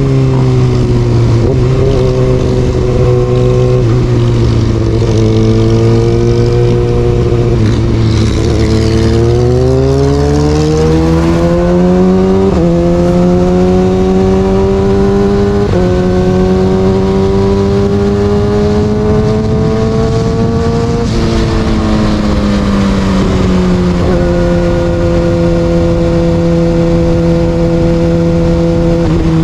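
Kawasaki Ninja ZX6R inline-four with an Austin Racing aftermarket exhaust running under way. The engine note climbs steeply from about 8 s in, holds and edges higher, then drops back at about 21 s and settles to a steady pitch.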